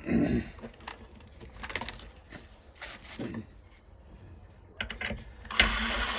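Knife blade being hand-sanded with sandpaper and handled: a thump right at the start, scattered clicks and short scratchy strokes, then a steadier sanding stroke of about a second and a half near the end.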